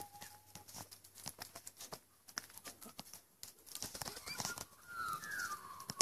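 Faint short whistled bird calls, a few notes in the last couple of seconds, over scattered soft clicks and crunches.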